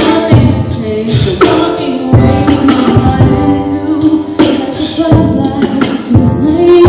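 Loud singing over music.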